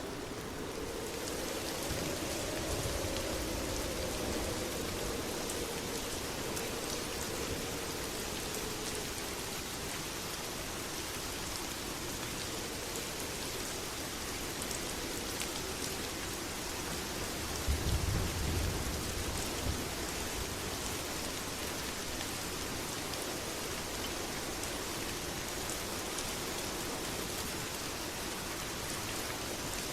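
Steady heavy rain pouring down, with a short low rumble of thunder about eighteen seconds in.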